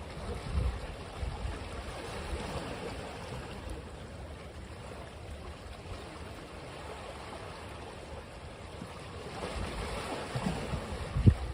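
Ocean surf washing on a beach as an even rush that swells near the end, with gusty low rumbles of wind on the microphone and a brief low thump just before the end.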